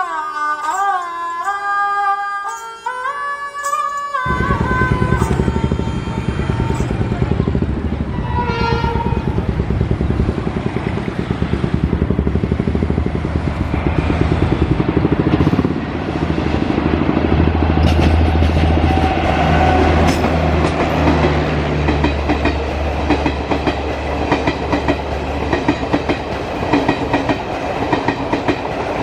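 Music for the first four seconds, then a locomotive-hauled passenger train, a WAP-5 electric locomotive with its coaches, running past: a loud rumble with clickety-clack of wheels over the rail joints. A short horn sounds about eight seconds in.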